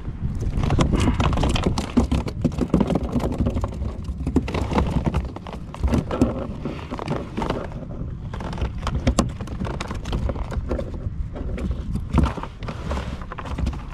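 Irregular clicks, knocks and clatter, with no even rhythm, over a steady low rumble of wind on the microphone.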